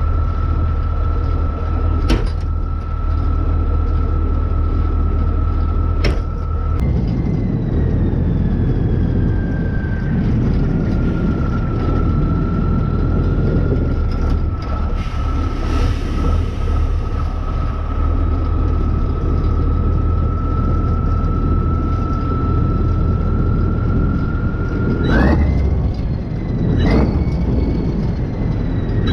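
Kirovets K-700A tractor's diesel engine running, freshly rebuilt and being run in, with a steady high whine over the engine rumble. About seven seconds in the engine note changes and the whine jumps up, then slides back down. It rises sharply twice near the end, among a few sharp clicks.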